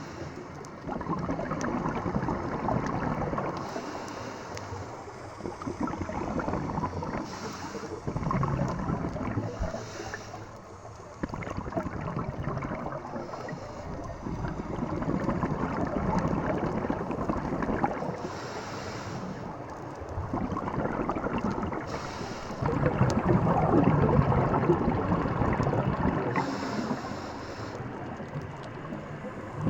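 Rushing water with wind noise, swelling and easing every few seconds, with no steady engine tone.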